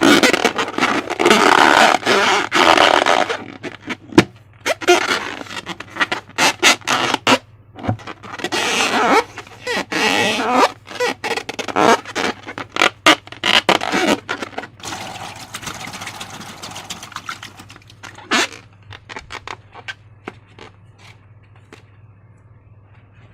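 Slime being worked by hand: irregular sticky crackling and squishing in loud bursts, peppered with sharp clicks, dying down to faint sounds near the end.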